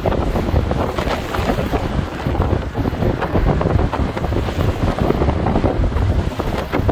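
Strong gusting wind buffeting the microphone with a heavy low rumble, over the wash of large waves breaking on the shore.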